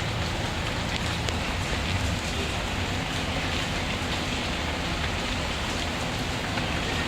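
Steady rain falling, an even continuous hiss with a few faint ticks now and then.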